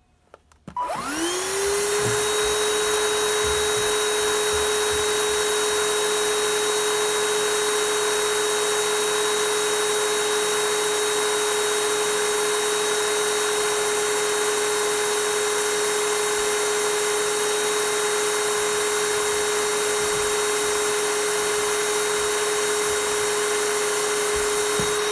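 Mini handheld vacuum cleaner switched on, its motor spinning up with a rising whine, then running steadily with a high whine and hiss. Near the very end the pitch starts to fall as it is switched off and winds down.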